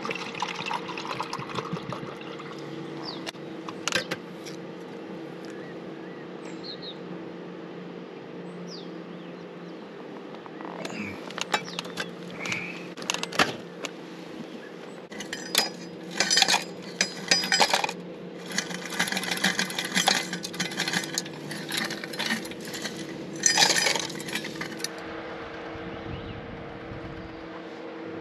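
Clinking and clattering of small hard objects being handled, sparse at first and then dense through the second half, over a steady low hum.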